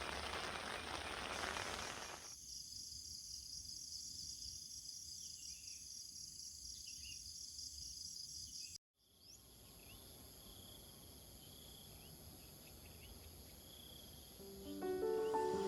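Rain hissing for about two seconds, then, after a cut, insects trilling steadily with a fast pulse. After a brief dropout, a high steady insect drone with a few faint bird chirps, and music fades in near the end.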